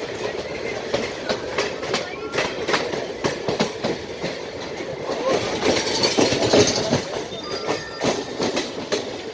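Express train coaches running through a station at speed without stopping. The wheels clatter in quick irregular clicks over the rail joints above a steady rushing noise, a little louder about six to seven seconds in.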